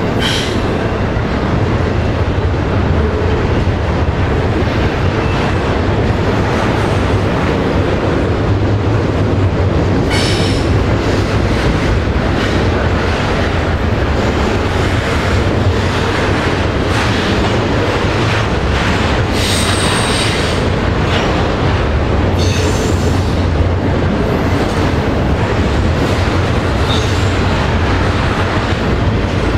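A train rolling steadily past, its cars rumbling and clattering on the rails, with several short high-pitched wheel squeals along the way.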